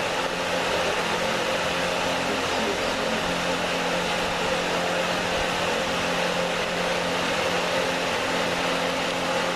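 Steady mechanical hum and hiss, even and unchanging throughout, like a running fan or blower.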